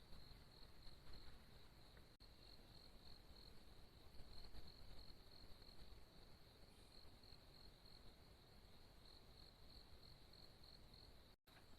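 Faint, steady, high-pitched insect trilling, like a cricket, pulsing evenly several times a second. The sound cuts out for an instant near the end.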